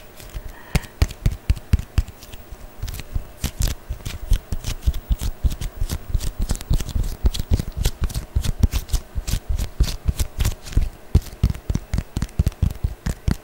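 Close-up ASMR tapping and handling sounds: hands and fingernails working on objects, giving a fast, irregular run of sharp clicks and soft thumps, several a second.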